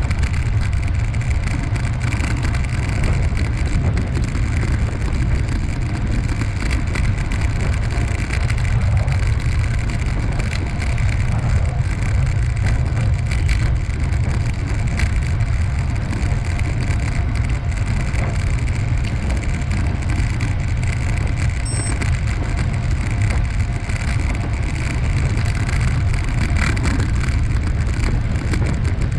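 Steady rumble of wind buffeting the camera microphone, with road noise, while riding a bicycle along a paved path.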